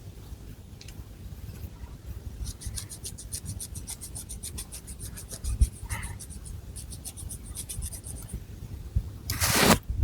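Long fingernails scratching through long hair on the scalp. Quick, even strokes come about six a second for several seconds, and a louder rustling sweep of the hair follows near the end.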